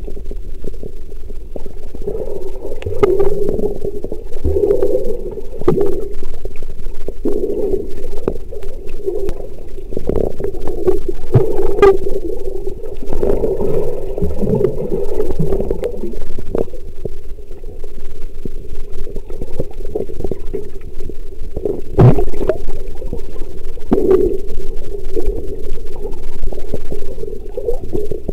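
Sea water heard through the microphone of a waterproof compact camera held underwater: a continuous muffled rumble of moving water, with scattered short knocks and clicks.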